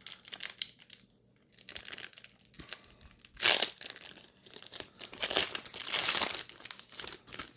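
Trading card pack wrapper being torn open and crinkled by hand, an irregular crackling with louder bouts about halfway through and again near the end.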